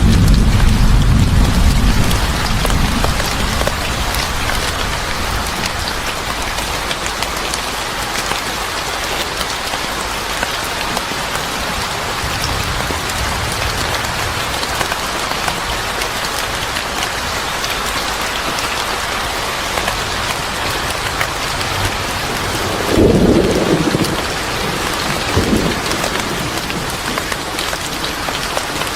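Steady heavy rain falling, with a low rumble of thunder dying away in the first couple of seconds. About two-thirds of the way through comes a brief louder rumble, and a smaller one shortly after.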